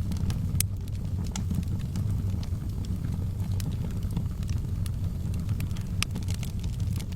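Wood fire burning in a fireplace: a steady low rumble of the flames with irregular sharp crackles and pops, a few louder pops among them.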